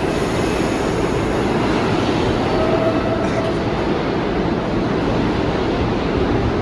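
New York City subway train moving through an underground station: a loud, steady rumble of wheels on rail, with a faint brief wheel squeal about three seconds in.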